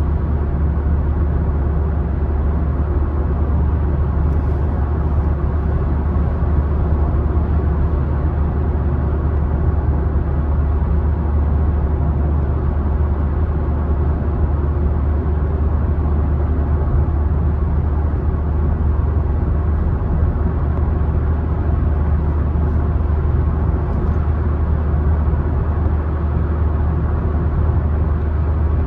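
Car driving at a steady speed: continuous tyre and road noise with a deep, even rumble that does not change.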